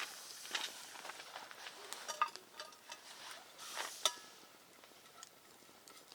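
Camp gear being handled: rustling and small knocks, with a couple of light metallic clinks that ring briefly, about two and four seconds in.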